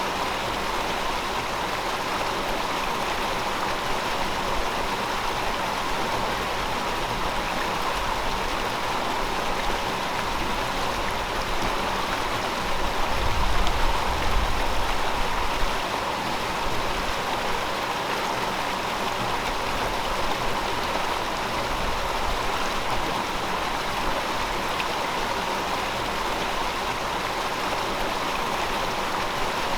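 River water flowing steadily over rocks, an even rushing with no breaks. About 13 seconds in, a low rumble swells briefly for two or three seconds.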